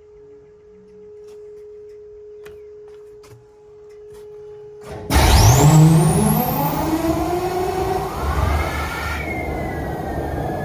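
SD70ACe diesel locomotive engine starting: a faint steady whine for about five seconds, then the engine fires suddenly and loudly, its pitch climbing as it spins up with a high whistle rising over it, before settling into a steady run.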